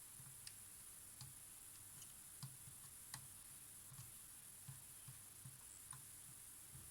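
Near silence with about ten faint, irregular light clicks and ticks, the strongest about three seconds in: small parts and tools being handled during close bench work on a camera.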